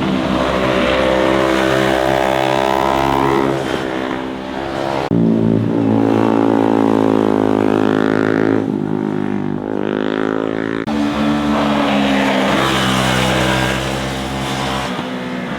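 Motorcycle engines revving hard as bikes accelerate past. The pitch climbs and then jumps abruptly at gear changes, about three times.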